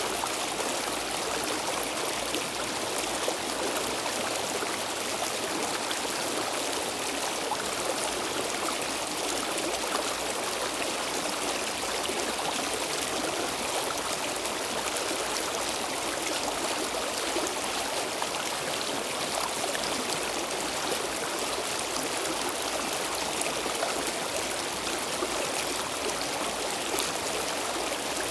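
Stream water flowing steadily over rocks, a continuous rushing and gurgling that stays even throughout.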